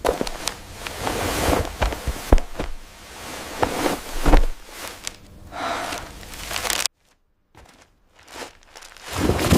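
AI-generated ASMR food sounds: close, irregular crunching and crinkling clicks, broken by a second of dead silence about seven seconds in.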